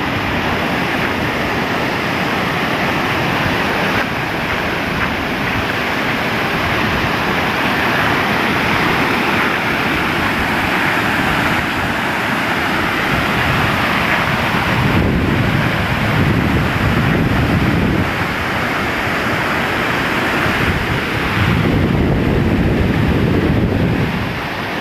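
Waterfall: rushing water falling in a steady, loud roar. Wind buffets the microphone with a low rumble twice in the second half.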